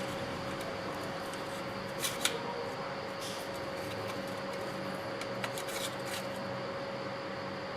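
A few light clicks and scrapes of hand tools or parts being handled, about two seconds in and again near the middle, over a steady hiss with a faint hum.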